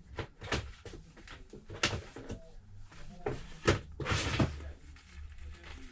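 Scattered sharp knocks and clicks, with a couple of short rustling sweeps, the loudest about four seconds in, as a new tablet battery and parts are handled on a workbench.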